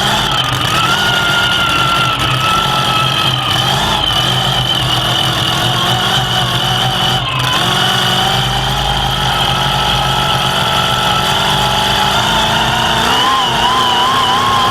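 Mega truck's engine running at a steady, slightly wavering speed, then climbing in pitch near the end as it is revved up.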